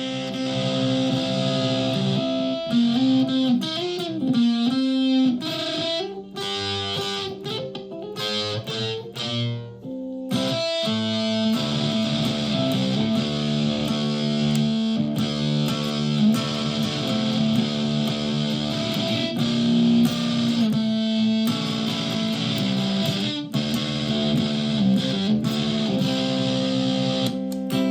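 Solid-body electric ukulele played through a clone of the Audio Surplus OK Doomer pedal: distorted, sustained chords that bend in pitch a few seconds in. The chords break off briefly about ten seconds in, then ring on.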